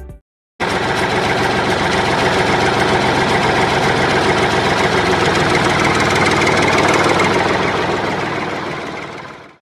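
Small motor of a DIY mini toy tractor running steadily with a dense rattle, fading out near the end.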